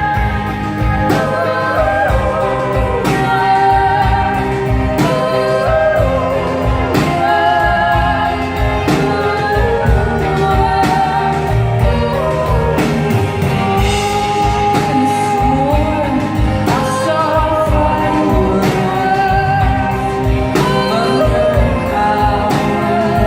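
Live band music with two women singing together over guitars, bass and drums: a slow, steady song with no breaks.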